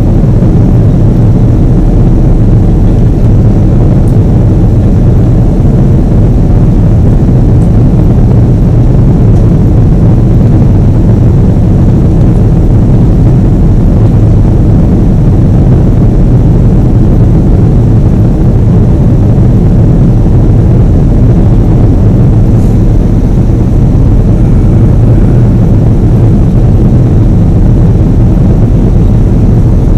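Boeing 777 jet engines running, a loud, steady low rumble that holds even throughout.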